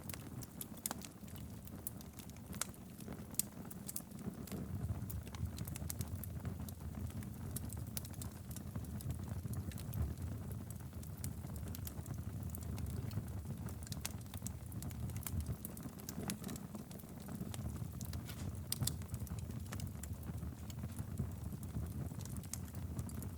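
Wood fire burning in a fireplace: a steady low rumble of the flames with irregular crackles and pops of burning wood.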